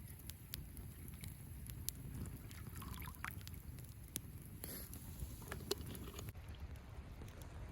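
Wood bonfire crackling: irregular sharp pops and snaps from the burning wood over a low, steady rumble.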